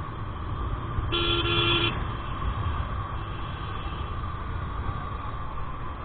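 A vehicle horn sounds once, a steady tone lasting just under a second, about a second in, over steady engine and road noise from a moving motorcycle.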